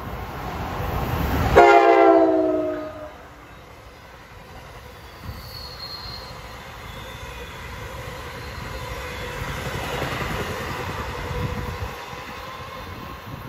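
A train passing: its rumble builds, then a horn blast of about a second and a half whose pitch drops as the train goes by. The train runs on after it with a faint steady whine.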